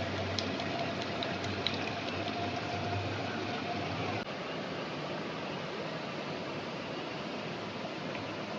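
Steady rushing of running water, like a stream, with a few faint ticks in the first couple of seconds and a brief break a little past halfway.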